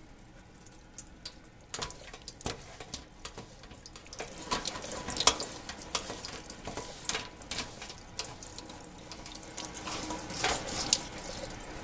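Water running from a sink tap and splashing as a furnace filter is rinsed under it, with scattered knocks and clatters. It grows busier about four seconds in.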